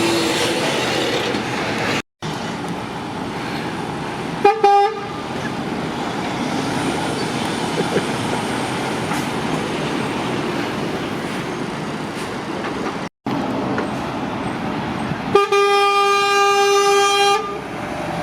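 A lorry's horn sounding over steady traffic noise: a short double blip about four seconds in, then one long blast of about two seconds near the end.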